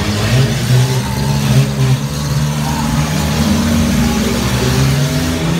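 Engines of several compact demolition-derby cars running and revving together, their pitch rising and falling as the cars manoeuvre.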